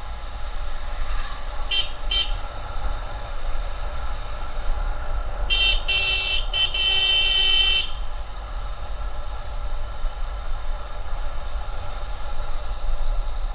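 Vehicle horn honking over a steady low rumble of wind and road noise on a moving motorcycle. There are two short toots about two seconds in, then a longer honk of several quick blasts near the middle.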